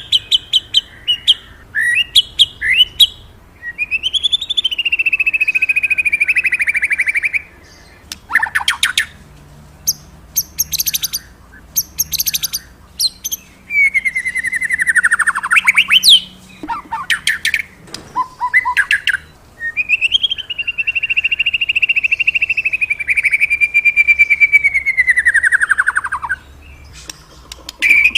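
Murai songbird in full song: long, wavering whistled notes, each held several seconds, broken up by bursts of rapid chattering and clicking notes.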